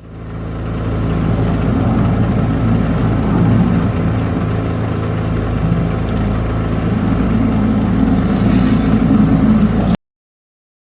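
An engine running steadily at a constant speed, fading in at the start and cutting off abruptly near the end.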